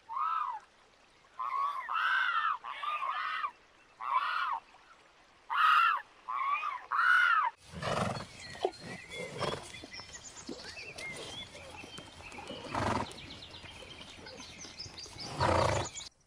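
A bird gives about nine short, arching, honk-like calls in little clusters. Then the sound changes to outdoor noise with scattered animal calls from grazing zebras, the loudest near the end.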